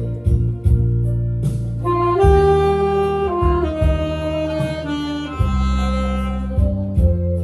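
Saxophone playing a slow melody in long held notes over an accompaniment with a steady bass line.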